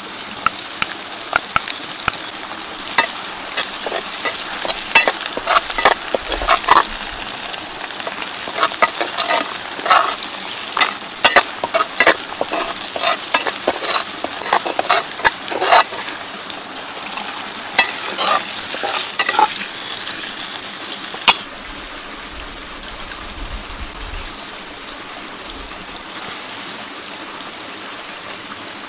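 Chopped chilies frying in oil in a pan, sizzling steadily, with a metal spatula scraping and knocking against the pan again and again as it stirs. About three-quarters of the way through the sizzling and scraping stop and a softer steady rushing noise carries on.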